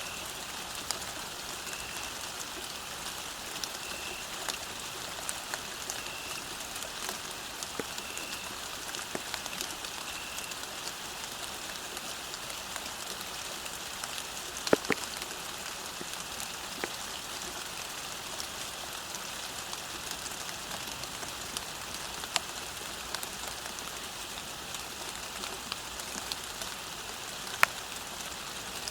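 Steady rain falling on a path: an even hiss with scattered sharper drop strikes. The loudest drop hits come about halfway through and near the end.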